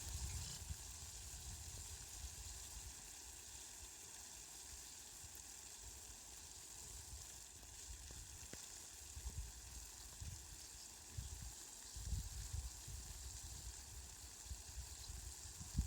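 Steady hiss of falling rain, fairly faint, with low rumbles coming and going, strongest in the second half.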